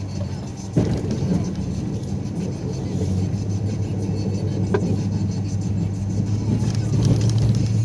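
Snow-plowing truck's engine running with a steady low drone. A sudden thump comes about a second in, and a short sharp click near the middle.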